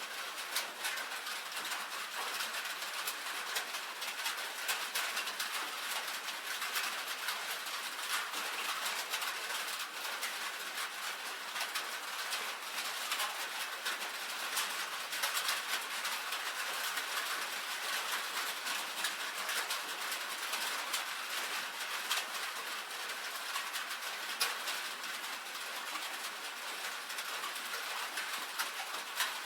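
Rain falling on a tin roof: a dense, steady patter of many small drop hits with no pauses.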